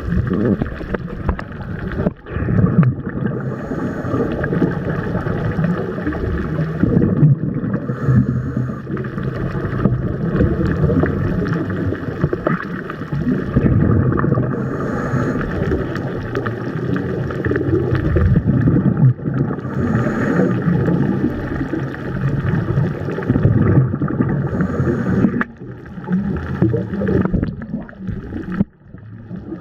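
Muffled rushing and gurgling of water heard through the microphone of a Nikon KeyMission 360 camera in the sea, a steady noise that dips briefly a few times.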